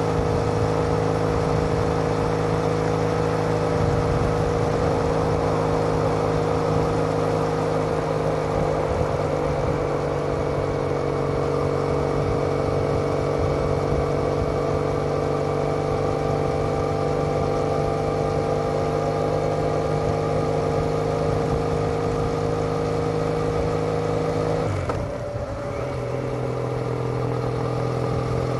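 Triumph Bonneville parallel-twin exhaust through TOGA aftermarket silencers, recorded on board while riding at steady revs. Near the end the sound dips briefly and settles at a slightly lower pitch.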